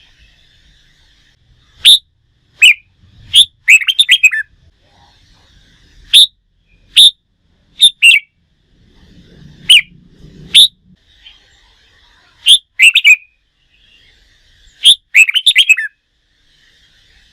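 Red-whiskered bulbul singing in short, loud, sharp phrases at irregular intervals, about a dozen over the stretch, with faint continuous twittering underneath. A low rumble comes in briefly about halfway through.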